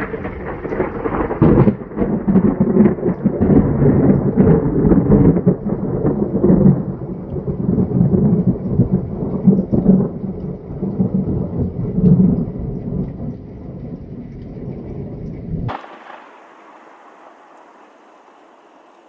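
Thunder from a nearby lightning strike: a long, loud rumble full of sharp crackles that rolls on for about twelve seconds and then dies away. About three-quarters of the way through, the sound cuts off abruptly to a faint steady hiss.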